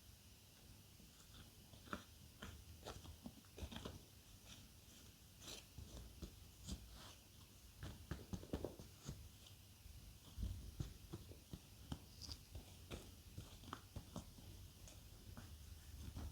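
Faint close-miked biting and chewing of crunchy food, irregular soft crunches and clicks several times a second, starting about two seconds in.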